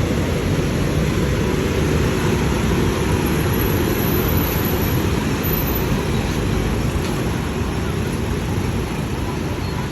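Steady low rumble of a vehicle on the move, even in level throughout.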